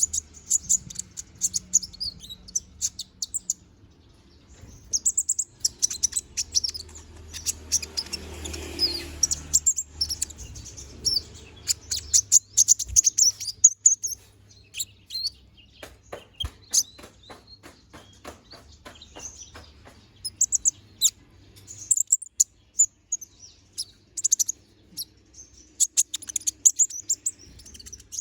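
A moulting konin songbird singing in fast bursts of high chirps and twitters, broken by short pauses; partway through comes a run of sharp, evenly spaced clicks.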